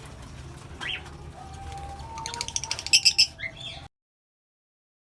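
Small pet parrots chirping over a low steady hum: one rising chirp about a second in, a held whistle, then a quick run of sharp chirps near three seconds, the loudest part. The sound cuts off abruptly just before four seconds.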